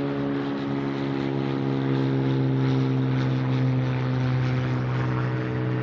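Propeller aircraft flying low overhead, its engine giving a loud, steady drone.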